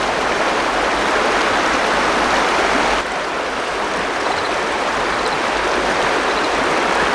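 River water rushing steadily over rocks, a constant flowing-water noise with a slight dip about three seconds in.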